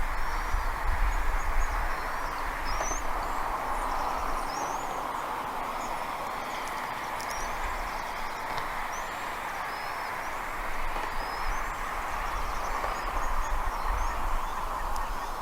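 Many short, high bird chirps scattered throughout, over a steady rushing noise and a low, pulsing rumble of wind on the microphone.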